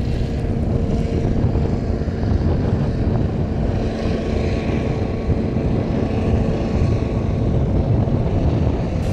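A steady engine drone, with two held tones, over a heavy low rumble; the drone fades out near the end.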